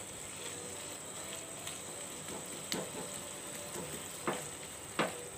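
Minced chicken filling sizzling steadily in its own juices in a nonstick frying pan as a spatula stirs it. A few sharp scrapes of the spatula on the pan stand out, the loudest near the end.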